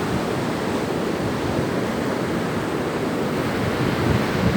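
Ocean surf washing onto the beach in a steady rush, with wind rumbling on the microphone, stronger near the end.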